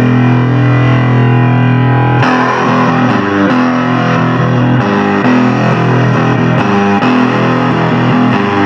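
Distorted electric guitar playing through effects: a held chord rings for about two seconds, then gives way to a run of quick single notes.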